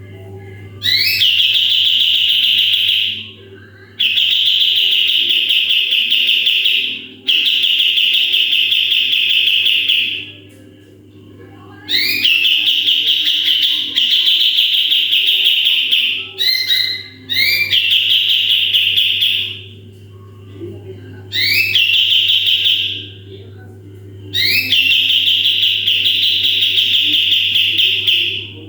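Kapas tembak songbird singing its 'tembakan' song: long, rapid, high-pitched trills of two to four seconds each, each opening with a quick rising sweep, repeated about eight times with short pauses between. A steady low hum runs underneath.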